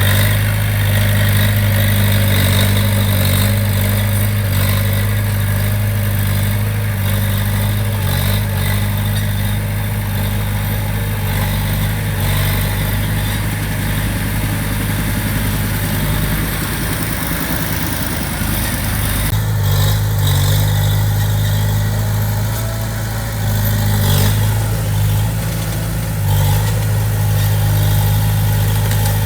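Diesel engine of heavy construction machinery running steadily with a deep, even hum; the sound shifts slightly about two-thirds of the way through.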